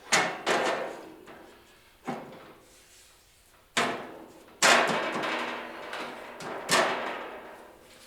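A pellet stove's cover being fitted back into place: about six sharp knocks, each ringing out briefly, the loudest about four and a half seconds in.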